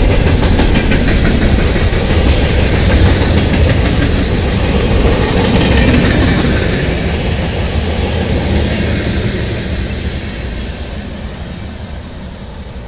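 Freight cars of a CSX maintenance-of-way train rolling past, with steady wheel-on-rail noise. The sound fades over the last few seconds as the end of the train moves away.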